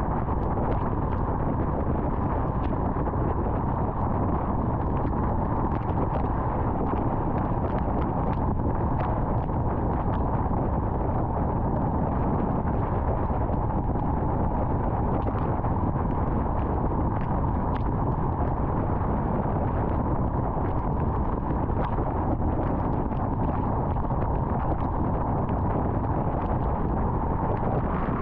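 Steady road and wind noise of a car travelling at highway speed, a constant low rumble with scattered faint ticks.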